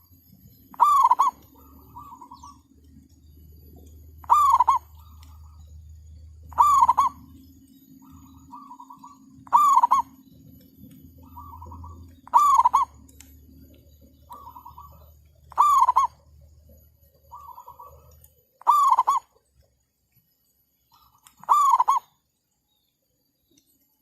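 Zebra doves cooing: a loud, falling call repeated about every three seconds, eight times, with softer short notes between the calls. A low steady hum runs underneath and stops about three quarters of the way through.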